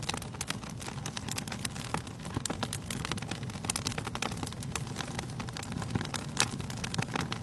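Wood fire burning in a fireplace: a steady low rumble of flame with dense, irregular crackles and snaps from the burning logs.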